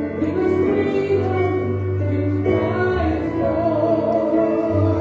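Live worship music: singers holding sustained notes over keyboard and bass chords.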